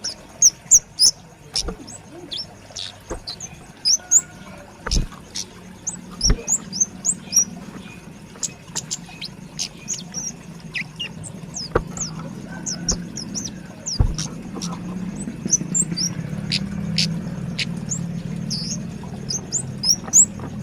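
Young kemade flowerpecker calling busily: many short, sharp, high chirps in quick succession, with a few clicks between them. A low steady hum builds up in the background in the second half.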